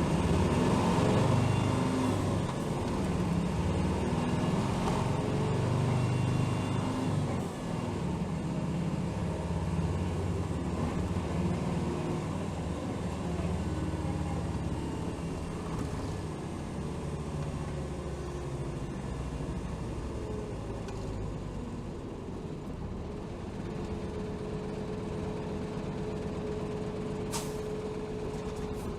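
Inside a Hino HR city bus: the diesel engine and drivetrain run loudly under load for the first several seconds, then settle to a quieter, steady running. A steady whine joins in near the end, with a short sharp hiss just before the end.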